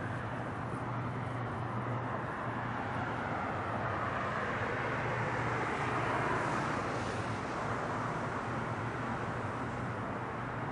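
Four-engine Airbus A340 jetliner taking off: a steady rush of jet engine noise that swells slightly about six seconds in.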